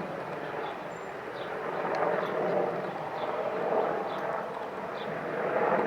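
Boeing AH-64 Apache attack helicopter flying by, its twin-turboshaft engines and rotor noise rising and falling in waves.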